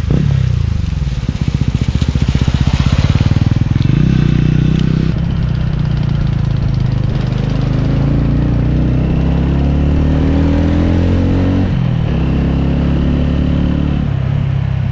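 TVS Ronin's 225 cc single-cylinder engine and exhaust under way, heard from on the bike. It labours in the first few seconds, then climbs steadily in pitch, drops at a gear change about twelve seconds in, and climbs again.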